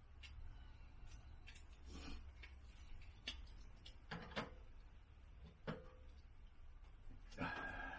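A scatter of light clicks and knocks, about a dozen spread unevenly, over a faint steady low hum, with a slightly longer clatter near the end.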